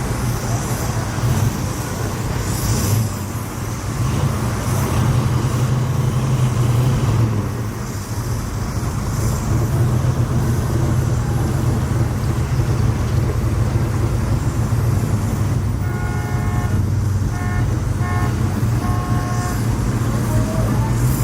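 Steady low rumble of car engines running, with a car horn giving about four short toots near the end.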